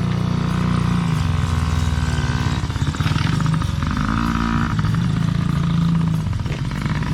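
Small 50cc kids' dirt bike engines running as the bikes ride along, the engine note rising briefly near the middle.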